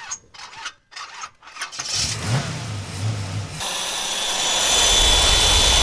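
A motor cranks over with a few short irregular bursts, catches about two seconds in, and then runs loudly and steadily with a high whine.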